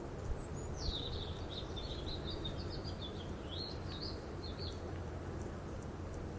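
A small songbird singing one warbled phrase of quick high chirps, opening with a short falling note and ending about two-thirds of the way through, over steady low background noise.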